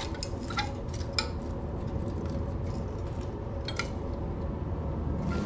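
A few scattered light metallic clinks and taps of hand tools against the swamp cooler's metal fan and motor hardware, over a steady low background noise.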